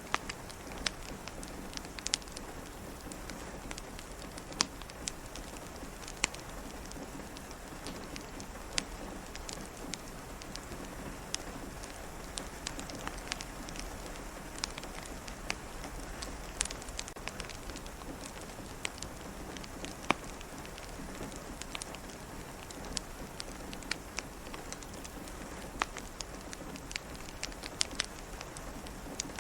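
Steady rain pattering against a window together with a crackling wood fire: an even hiss broken by frequent irregular sharp pops and ticks.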